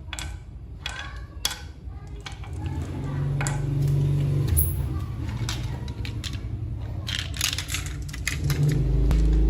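A small motor hums low and steadily, swelling louder about three seconds in and again near the end, amid repeated clicks and clattering of small hard parts.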